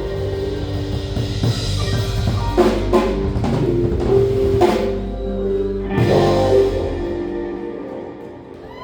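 Live band playing with drum kit, bass and guitar, several drum hits in the middle, the music dying away over the last couple of seconds as a song ends.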